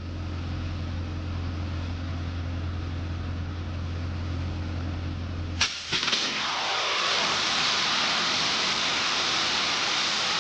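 A steady low mechanical hum, cut about halfway through by a sharp bang. A loud, steady rushing hiss follows and continues, typical of a pipe bursting under pressure test and its contents blasting out.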